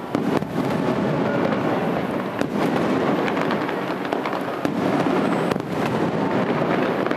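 Aerial firework shells bursting in a series of sharp booms, near the start, about two and a half seconds in and again later, over a dense continuous rumble and crackle of the display.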